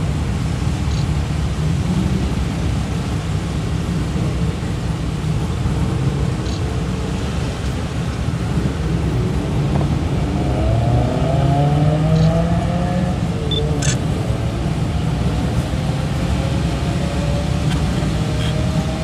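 Cars driving slowly past over a steady low engine rumble. A passing car's engine rises in pitch as it pulls away about halfway through, and another does the same near the end. A single sharp click comes a little after the first pull-away.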